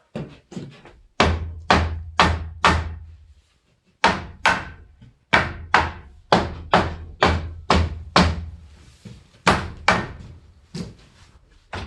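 Hammer blows knocking a wooden door frame into its opening, struck in runs of a few at about two a second, with a brief pause about three and a half seconds in.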